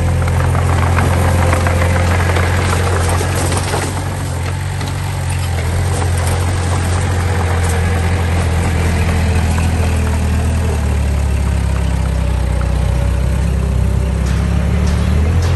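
Diesel engine of heavy earthmoving machinery running steadily at a low, even speed, with scattered rattles and clanks over it.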